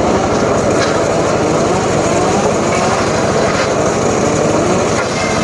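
Engine of a homemade circular saw rig running steadily, its pitch wavering slightly.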